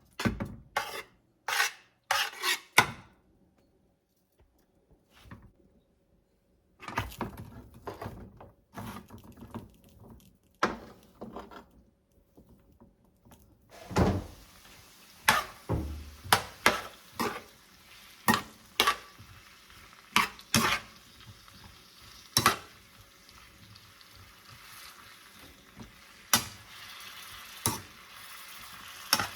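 Dishes and utensils clinking and knocking, then from about halfway a steady sizzle of food frying in a pan, with repeated clinks of stirring over it.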